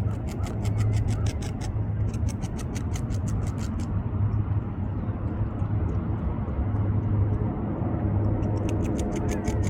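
Beaver gnawing bark off a branch: quick scraping bites at about five a second in runs, stopping for several seconds in the middle and starting again near the end. A steady low rumble runs underneath.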